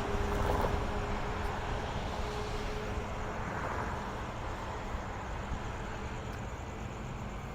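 Road traffic at a crossing, with a steady low rumble that slowly dies away. A single steady tone fades out about four seconds in.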